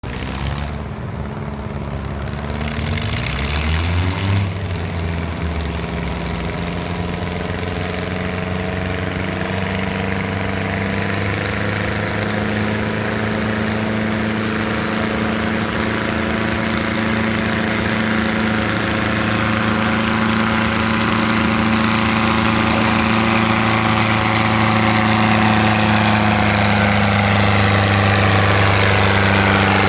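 Antique tractor engine running steadily. It revs briefly about three to four seconds in with a short rush of noise, then settles and grows slowly louder.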